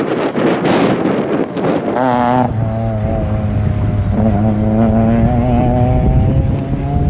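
Wind buffeting the microphone, then about two seconds in a rally car's engine comes in loud. It eases briefly, then pulls steadily with its pitch slowly climbing as the car accelerates out of the bend.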